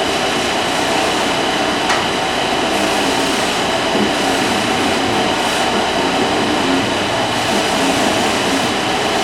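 Electric winch motor running steadily as it hoists a tractor's wheelchair lift up toward the seat under a rider's weight. The sound is a continuous even mechanical whir with a faint steady whine, and a light click about two seconds in.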